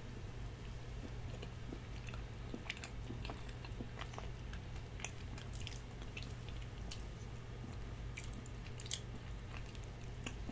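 A person eating a bite of dense cheesecake, with faint, soft mouth sounds of chewing and small wet clicks scattered throughout.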